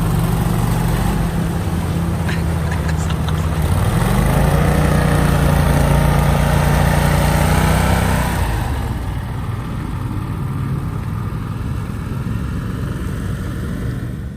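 Polaris RZR side-by-side engine running and pulling, climbing in pitch about four seconds in, then backing off a little past halfway and leaving a rougher rumble.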